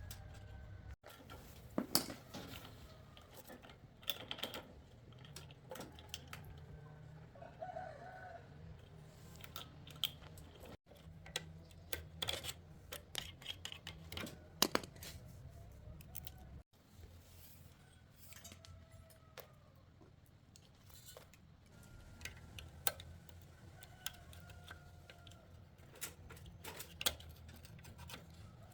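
Scattered clicks and light knocks of hand tools at work on an old bicycle, irregular and sharp, over a low steady hum.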